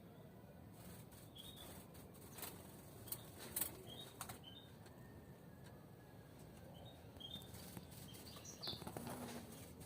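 Caged European goldfinches giving short, scattered chirp calls, with a few sharp clicks and flutters as the birds move about the cage.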